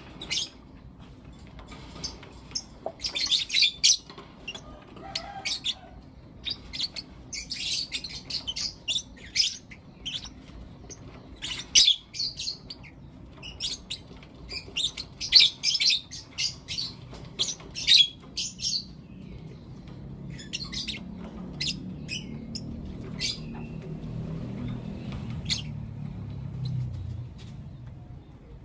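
Pet lovebirds chirping: runs of sharp, high chirps in quick clusters, thinning to scattered chirps in the second half. A low hum sits underneath in the second half.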